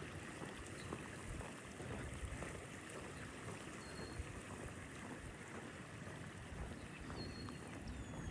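Faint, steady outdoor rushing noise along a wooded creek path, with two short, high bird chirps partway through.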